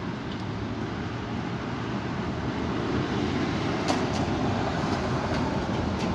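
Strong wind gusting and buffeting the microphone: a dense, low rumble that swells a little midway, with a few sharp clicks in the second half.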